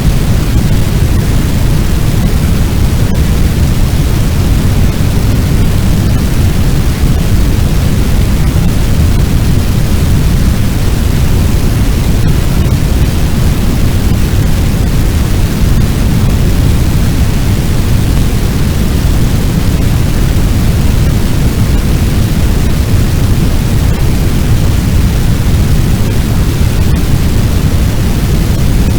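Fire sound effect: a loud, steady rush of low noise, like the roar of a large blaze or fire wind, with no crackles or breaks.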